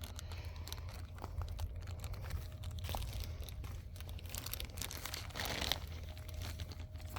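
Footsteps crunching and rustling through forest undergrowth and leaf litter, with irregular crackles and swishes of vegetation, over a steady low rumble.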